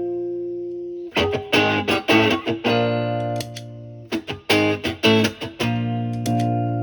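Electric guitar (a single-coil Stratocaster) through an MXR Duke of Tone pedal in its overdrive mode, into a Marshall Valvestate's clean channel. Short phrases of picked chords and licks, each ending in a chord left ringing and fading.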